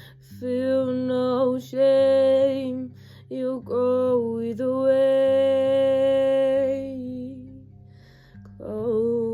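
A woman singing a slow ballad with long, held notes that waver in pitch, over soft instrumental accompaniment of low held notes. The singing breaks off briefly a few times and picks up again near the end.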